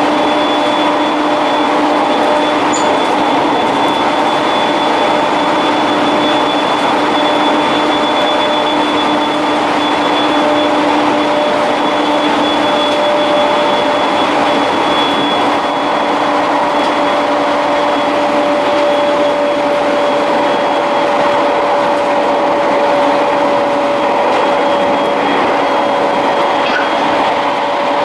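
Running noise of a passenger train heard from inside the car at steady speed: a constant rumble of wheels on rail with a few steady humming tones, one fading out about halfway through and another growing stronger later.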